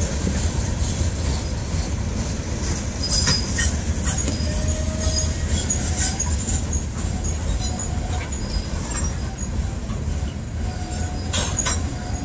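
Freight train of covered hopper cars rolling past at a steady speed: a continuous low rumble of steel wheels on rail, with sharp clicks here and there, strongest about three to four seconds in and again near the end.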